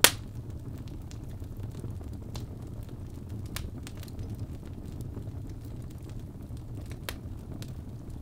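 Birch logs burning in a fireplace: a steady low rumble of flame with scattered crackles, one loud sharp pop right at the start and smaller pops about three and a half and seven seconds in.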